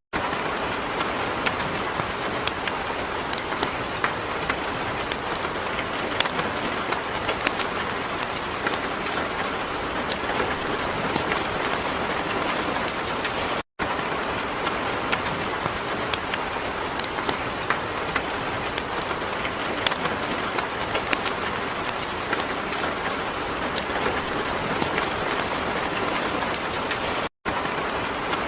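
Heavy rain falling steadily, a dense even hiss dotted with many sharp individual drop impacts. The sound cuts out for a split second twice, about 14 and 27 seconds in.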